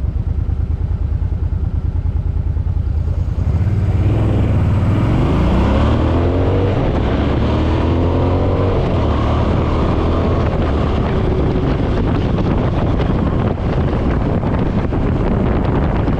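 Suzuki Boulevard M50 motorcycle's V-twin engine, heard from the rider's seat. About three seconds in, it opens up and accelerates hard, its pitch rising steeply as it pulls up through the revs. It then settles to a steady run under rising wind rush.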